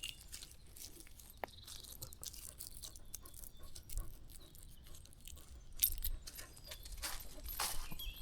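Footsteps and rustling of vegetation along a countryside path: irregular light clicks and brushing noises, with louder rustling near the end.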